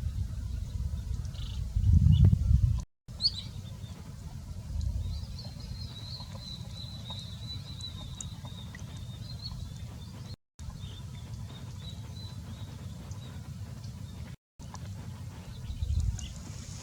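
A bird's thin, high call held for several seconds and slowly falling in pitch, over a low rumbling noise that swells about two seconds in and again near the end. The sound cuts out briefly three times.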